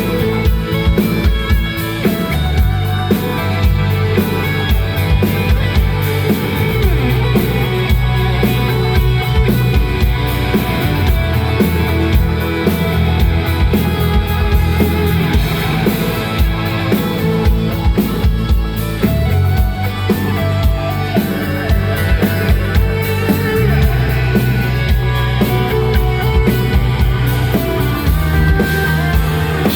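Rock band playing live, with drum kit, guitars and bass on a steady beat.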